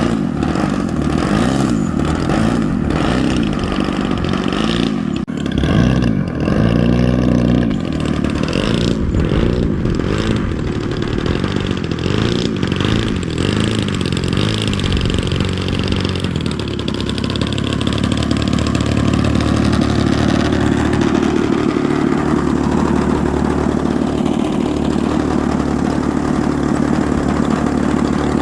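GP 76 gas engine of a large RC aerobatic plane running, its pitch rising and falling over the first half, then holding steady for the rest.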